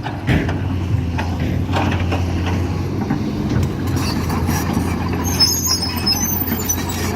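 Excavator's diesel engine running steadily under work, with scattered sharp knocks and clanks. A brief thin high squeal comes about five to six seconds in.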